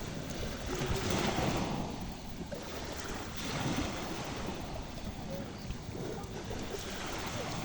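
Sea waves washing in, with wind buffeting the microphone; the wash swells about a second in and again a little after three seconds.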